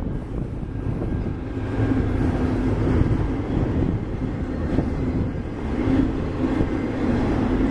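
Autorack freight cars rolling past: a steady rumble of steel wheels on the rails.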